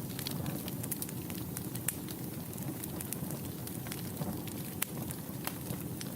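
Wood fire burning in a fireplace: a steady low rumble of flames with frequent scattered sharp crackles and pops.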